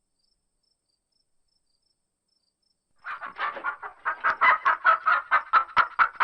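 Chicken clucking: after about three seconds of silence, a quick series of short clucks starts and speeds up to about four a second as it grows louder.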